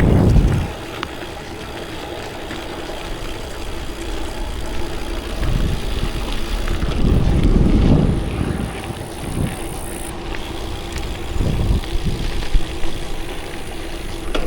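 Wind buffeting the microphone over the rumble of bicycle tyres rolling on a gravel rail trail, swelling louder in a few gusts.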